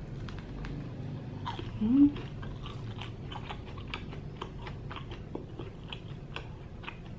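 Chewing on battered, deep-fried breadfruit, with a bite into the crisp crust at the start and then steady chewing full of small crackling crunches. About two seconds in comes a brief rising hum from the eater.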